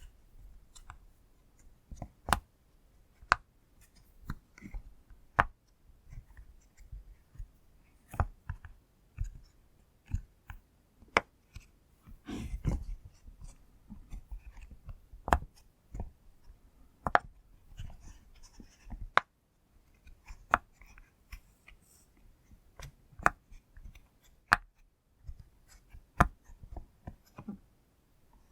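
Pop-it fidget toy bubbles being pushed through one after another, giving sharp pops and clicks at an uneven pace, some much louder than others.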